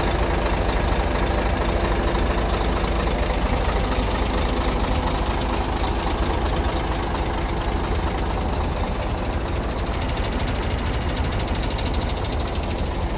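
Scania R114 truck's straight-six diesel engine running steadily.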